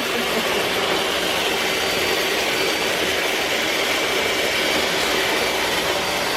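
iRobot Roomba s9+ robot vacuum running on max power: a steady whooshing motor noise with a faint high whine.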